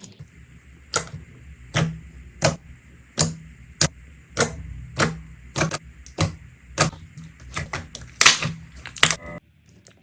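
Slime being pressed and poked, giving a rapid string of sharp crisp pops and clicks, about one every two-thirds of a second, loudest in a quick cluster near the end, then cutting off suddenly.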